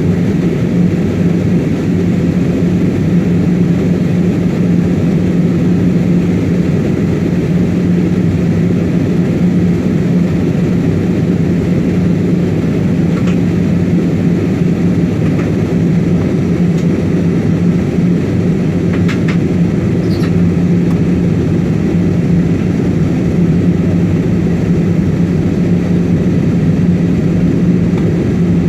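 Steady cabin noise of an airliner descending towards landing: the jet engines and rushing air make an even roar over a constant low hum. A few faint clicks come about two-thirds of the way through.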